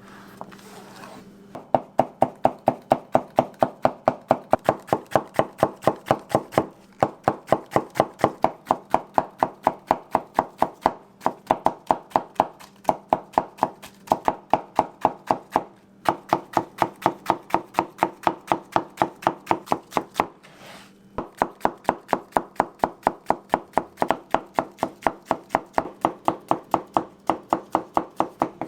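Steady rhythmic chopping on a cutting board, about three to four strikes a second, broken by a few short pauses.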